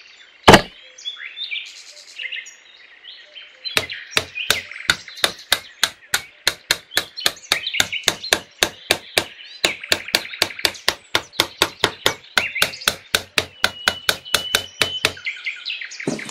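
Small hammer tapping thin stick posts into a miniature diorama's base: one loud knock about half a second in, then a long run of sharp, quick taps, about three to four a second, with a short pause midway. Birds chirp faintly behind the taps.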